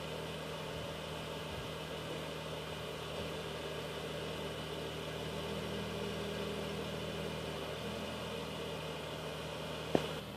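Dodge Durango's engine idling steadily, with a single sharp click near the end.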